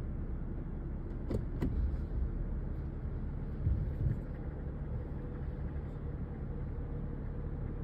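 2016 Lexus GS 350's 3.5-litre V6 engine idling just after start-up, with the tapping noise the owner is recording. There are two sharp clicks about a second and a half in and a couple of low thumps about four seconds in.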